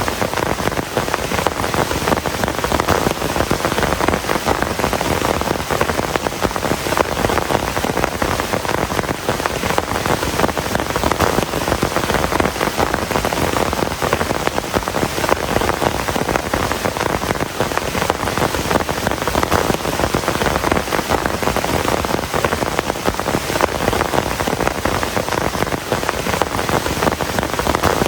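Heavy rain falling steadily: a dense, unbroken patter of drops.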